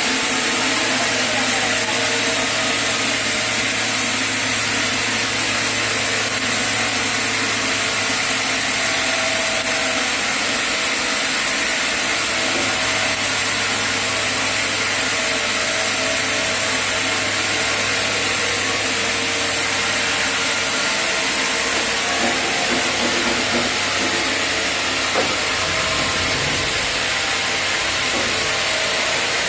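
Sawmill saw cutting through a chinaberry (sendan) log: a steady, loud hiss of the blade in the wood over the low, even hum of the saw's motor.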